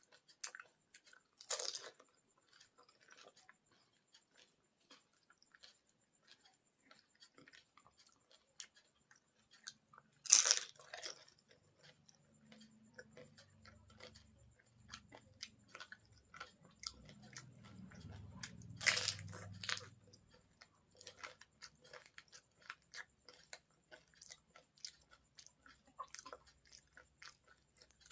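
Person eating panipuri: crisp, hollow fried puris crunching loudly when bitten, three big crunches spread across the stretch, with chewing and small crackles in between.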